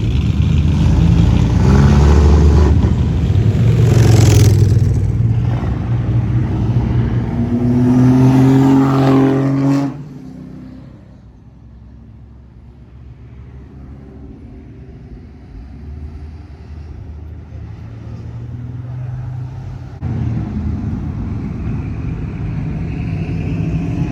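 Classic car engines passing close by, revving with rising pitch, loud for the first ten seconds before cutting off suddenly. A quieter stretch of engine sound follows, and a louder engine comes back suddenly near the end.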